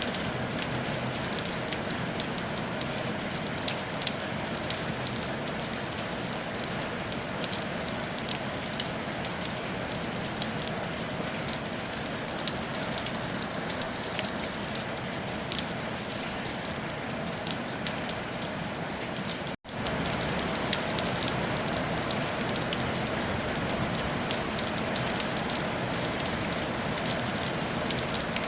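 Steady rain falling on a tile roof: a dense, even patter of drops. The sound cuts out for an instant about two-thirds of the way through, then resumes slightly louder.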